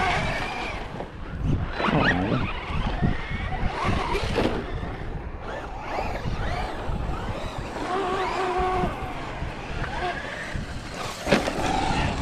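Electric RC trucks' motors whining, rising and falling in pitch as they are throttled on and off, over tire and ground noise. There is a sharp knock near the end.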